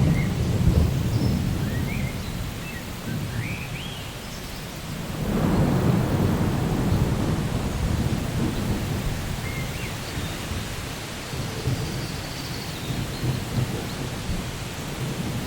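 Steady rain with rolling thunder: a rumble is dying away at first, and another swells up about five seconds in and fades slowly.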